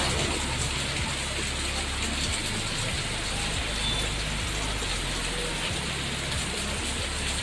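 Rain falling steadily: an even hiss of many drops hitting surfaces, with scattered individual drop taps.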